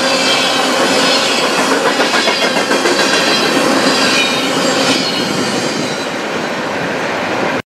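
Freight train's covered hopper cars rolling past at close range: wheels clattering over the rails in a pulsing rhythm, with a high wheel squeal over it. The sound eases slightly in the last seconds, then cuts off abruptly near the end.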